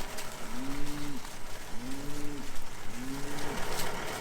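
Cattle mooing: a run of short, low calls, each rising and falling in pitch, coming about once a second, from hungry cows waiting to be fed.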